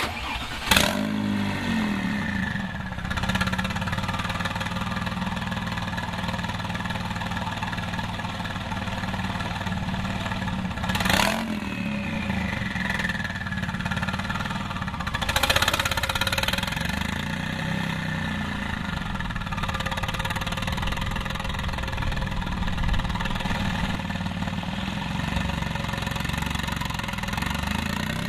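Porsche 996 911 Turbo's twin-turbo flat-six with a straight-piped turboback exhaust starting up. It flares in revs under a second in, then settles to a steady idle, with two short throttle blips about eleven and fifteen seconds in.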